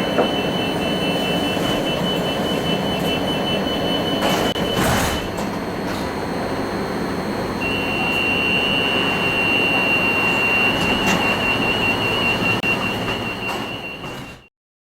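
AnsaldoBreda Sirio tram running, a steady rumble with a thin high-pitched whine over it. The whine stops about five seconds in, just after a couple of clunks, and comes back a couple of seconds later. The sound cuts off abruptly near the end.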